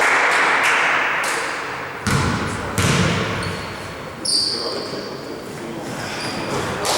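Basketball game on an indoor court: the ball thuds and bounces on the floor several times, with a short high squeak about four seconds in.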